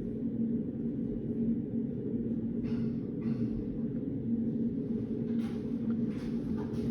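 Steady low hum of a reading room's background noise, with a few faint, brief rustles from the person studying: two near the middle and several more toward the end.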